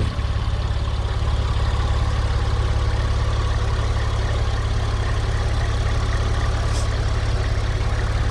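2002 Porsche 911 Carrera 4S's flat-six engine idling steadily, its revs already settled down from the raised cold-start idle as it warms.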